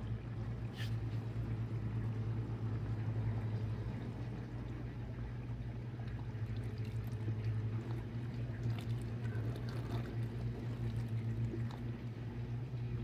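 Dishwasher running its wash with water sloshing inside and a steady low moaning and groaning hum. The owner says it never made this noise before and that it has always been a quiet dishwasher; the noise comes once the wash gets going.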